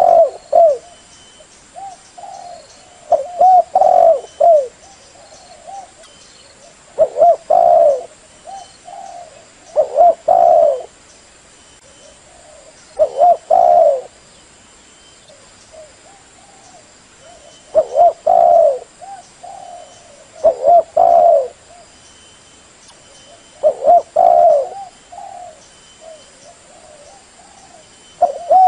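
Female spotted dove cooing, a short phrase of a few low coos about every three seconds. This is the call used to draw wild spotted doves.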